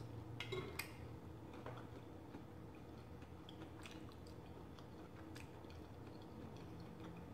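Quiet, close-up chewing of forkfuls of garlic parmesan potatoes, with a few faint clicks of a metal fork against the plate.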